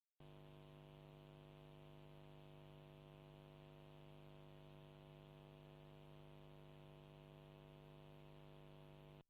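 Faint, steady electrical hum with a stack of even overtones, starting abruptly and cutting off abruptly about nine seconds later.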